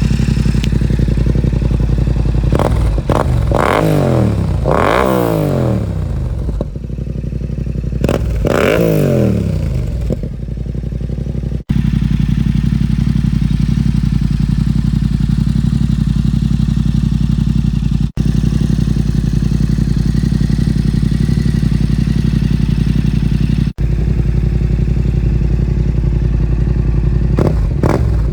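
2017 Yamaha MT-07's parallel-twin engine idling through an aftermarket full exhaust system. It is revved in quick blips that rise and fall in pitch, in two bursts within the first ten seconds, then settles back to a steady idle.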